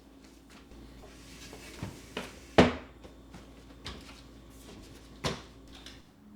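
Several light knocks and clicks of household objects being handled, the loudest about two and a half seconds in, over a faint steady hum that stops near the end.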